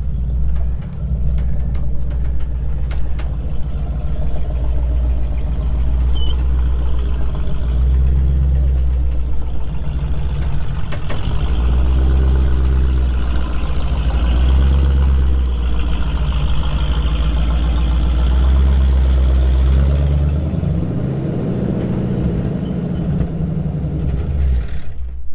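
Vehicle engine running steadily, heard close up, with a deep low drone. About twenty seconds in its note changes, the lowest drone dropping away while the pitch moves up and down.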